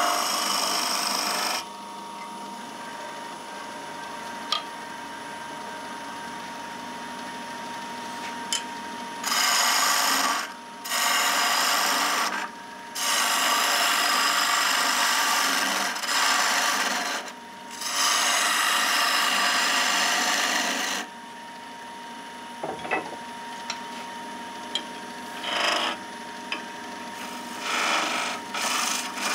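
Wood lathe running with a thin steady tone while a tool is worked against spinning pine, giving loud stretches of cutting or rubbing noise a few seconds each, then shorter, lighter touches near the end.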